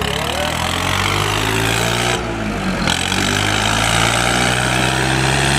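Tractor diesel engine running steadily at a held speed.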